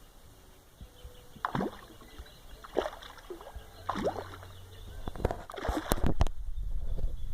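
Matrinxã fish splashing at the water surface as they strike at guavas: a series of short splashes, about five, the last few close together around six seconds in. A low rumble comes in about halfway.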